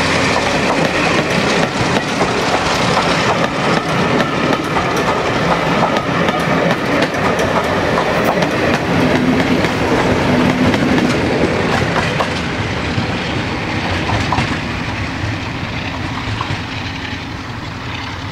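Passenger coaches rolling past close by, their wheels clattering over the rail joints, as a train is hauled up a bank by a Hymek diesel-hydraulic locomotive with a Maybach MD870 engine working hard. The sound fades gradually over the second half as the train draws away.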